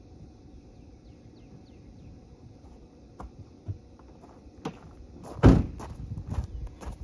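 A few light clicks and footsteps, then a car door shutting with a heavy thump about five and a half seconds in, followed by more steps and knocks.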